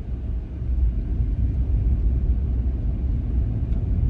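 Car on the move, heard from inside the cabin: a steady low rumble of engine and tyres.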